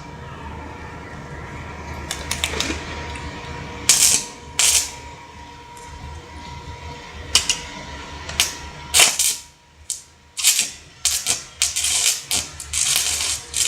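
Irregular metallic clinks and knocks, a dozen or so spread unevenly, over a faint steady hum, with denser clatter near the end.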